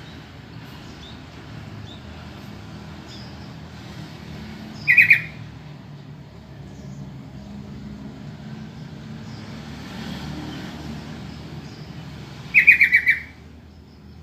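Sooty-headed bulbul (trucukan) giving two short bursts of quick chattering call notes, about five seconds in and again, a little longer, near the end, over a steady low hum.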